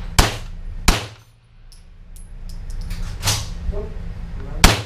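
Rifle shots in an indoor firing range, each with a short echo: two sharp shots in quick succession at the start and another near the end, with a duller bang about three seconds in. Small high ticks sound between them.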